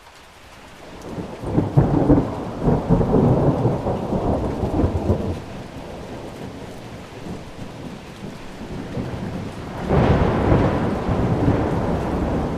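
Steady rain with two rolls of thunder: the first builds about a second in and dies away after a few seconds, the second breaks in suddenly near the end and keeps rumbling.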